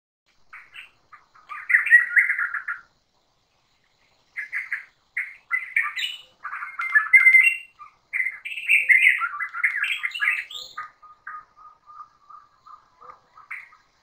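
Forest birds calling in bursts of quick chirps and squawky phrases, ending in a run of short, evenly spaced notes.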